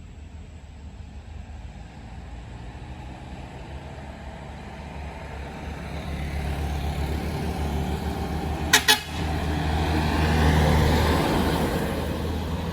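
A Medali Mas bus approaching on a wet road, its engine and tyre noise building, gives two short, loud horn blasts about nine seconds in, then passes close by and fades away.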